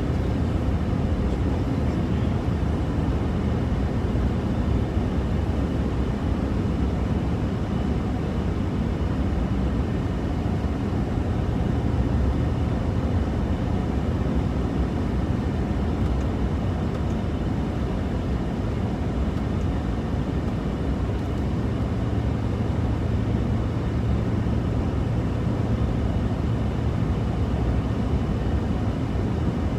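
Steady road and engine noise inside a moving truck's cab: an even low drone with no distinct knocks or bangs.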